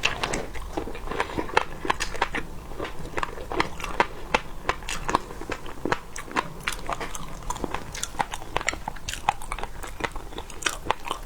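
Close-miked mouth sounds of a person eating seafood: chewing and biting, with many sharp, irregular clicks and crunches.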